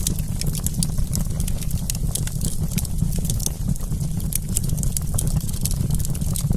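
Wood campfire crackling: a dense, irregular run of small sharp pops and snaps over a steady low rumble.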